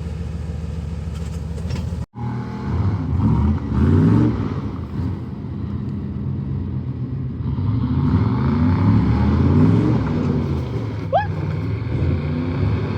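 A 4x4's engine running under load off-road, revving up and falling back in repeated waves as the driver works the throttle. The sound drops out briefly about two seconds in, and there is a short rising squeak near the end.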